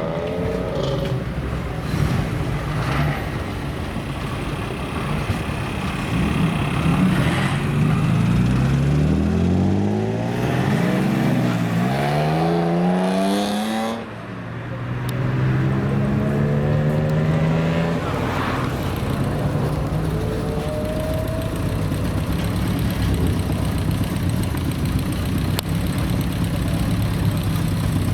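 Car engine accelerating hard, its pitch climbing through the gears with quick drops at each shift, then cutting off abruptly about fourteen seconds in. It pulls up again briefly and then settles back to a steady low running sound.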